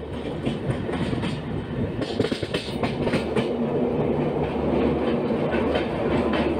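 Pune–Hazrat Nizamuddin Duronto Express running at speed without stopping, heard from aboard: a steady rumble with the wheels clacking over track joints in quick runs of clicks.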